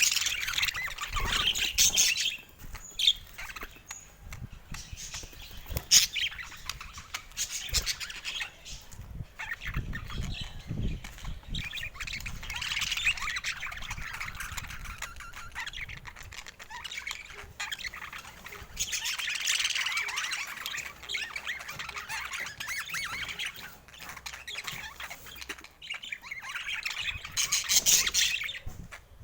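Budgerigar chatter: a fast, warbling run of chirps, squawks and clicks that swells in several bouts and eases off in between.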